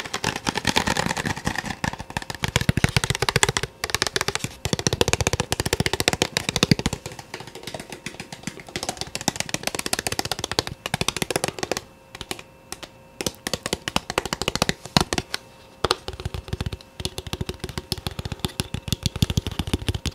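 Rapid, soft hand tapping, many taps a second, coming in runs broken by short pauses.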